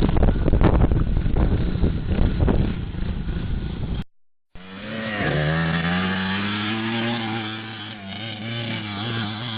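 Motorcycle engines. First a rough, noisy run with several sharp knocks; then, after a brief cut, a small motorcycle engine revving up and down.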